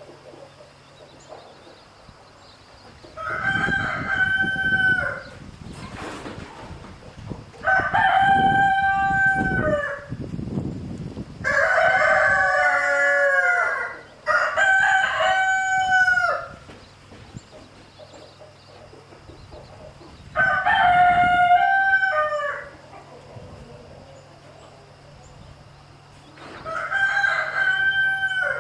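Rooster crowing over and over, about six full cock-a-doodle-doo crows a few seconds apart, each lasting about two seconds.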